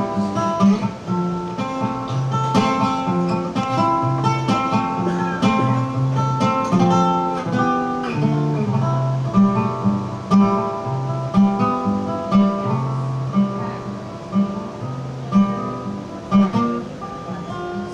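Solo acoustic guitar playing an instrumental passage: picked notes over a repeating bass line, with occasional strums.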